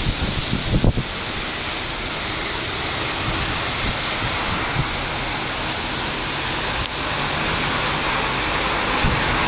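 Strong storm wind rushing steadily, with gusts buffeting the microphone in a low rumble, hardest in the first second.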